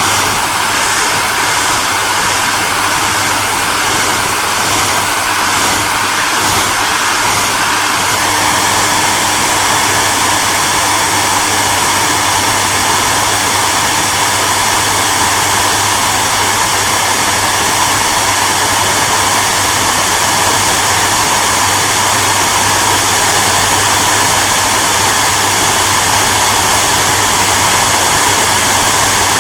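Hair dryer running steadily: a continuous airy rush over a low motor hum. A faint regular flutter in the highs fades out about eight seconds in.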